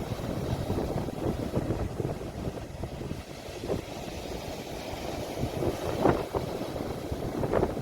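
Sea waves washing in a low, steady rumble, with wind buffeting the phone's microphone.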